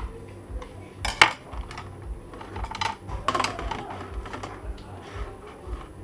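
Clinking and clattering, like dishes or utensils, sharpest about a second in and again about three seconds in, over a faint, regular low thumping.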